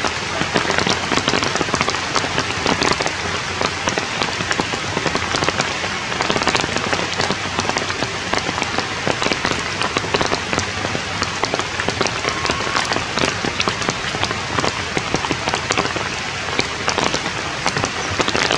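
Rain falling on forest leaves: a steady, fairly loud wash of rain with many separate drop hits on the foliage.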